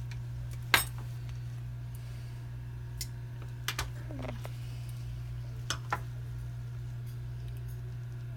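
A few scattered light clicks and taps of small tools and materials being handled on a work bench, the sharpest about a second in and a pair near the middle and near six seconds, over a steady low hum.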